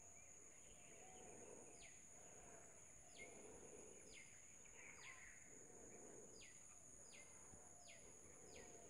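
Near silence: faint background hiss with a distant bird's short falling chirps, repeating about once or twice a second and coming closer together later on.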